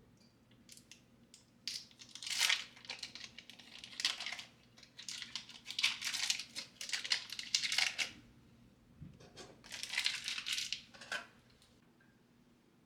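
Crinkling and rustling of something being handled, in a run of irregular bursts that stop about a second before the end.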